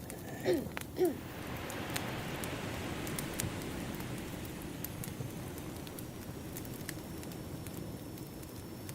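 Added ambience track of a crackling wood fire with ocean waves washing in: scattered sharp crackles over a steady hiss, and a wave wash that swells about a second in and fades over a few seconds. Two short falling squeaks, the loudest sounds, come in quick succession near the start.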